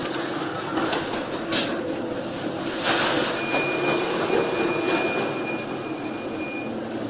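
A ship in a Force 12 storm: a steady rushing din with clattering knocks, and a steady high squeal that holds for about three seconds in the middle.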